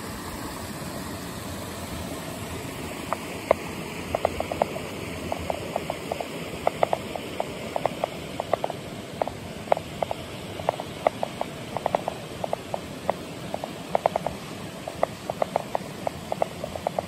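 Kibune River stream running steadily, with quick, irregular plinks and gurgles of water that grow more frequent after about three seconds.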